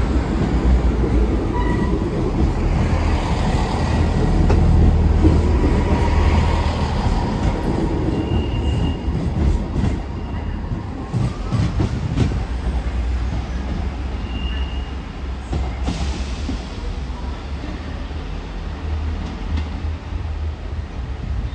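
Train running through the station with a steady low rumble, loudest a few seconds in. Brief high wheel or brake squeals come a few times.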